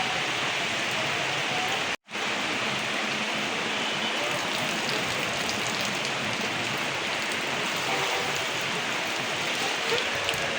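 Heavy rain falling in a steady, dense hiss of drops on surfaces. The sound cuts out for an instant about two seconds in.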